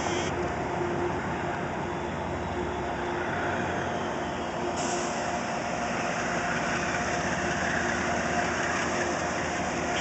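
Metro-North commuter train rolling slowly into the station: a steady rumble of wheels and running gear with a faint, steady hum.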